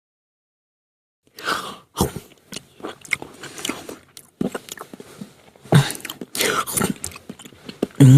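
A person biting and chewing crunchy food, a run of short irregular crunches starting about a second in. A voiced sound, like a hum or groan, begins right at the end.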